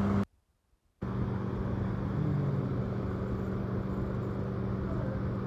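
A steady low mechanical hum, cut off to dead silence for most of a second near the start, then running on unchanged.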